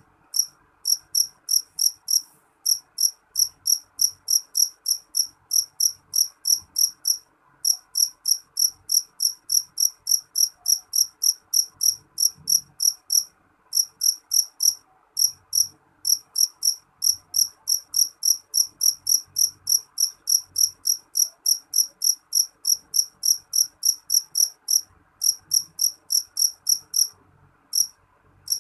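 A jangkrik jeliteng, a black field cricket, singing loudly and shrilly close by: a high, even chirp repeated about three to four times a second, in long runs broken now and then by short pauses.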